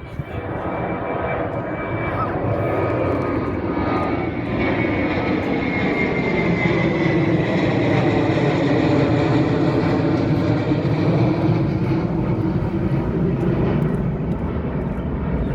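Airplane taking off, its engines a loud, steady rumble with a high whine that falls slightly in pitch. The sound swells to its loudest about two-thirds of the way through as the plane passes, then begins to ease.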